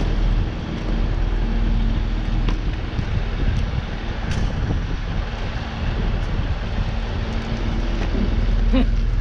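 Steady low hum of an idling diesel passenger train, with wind rumbling on the microphone.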